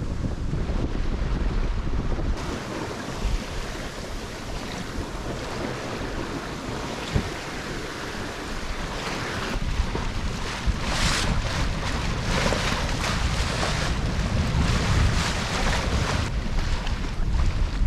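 Wind buffeting the microphone over water rushing and splashing along the hull of a sailboat under way. The hiss of the water grows louder and brighter about halfway through, then eases near the end.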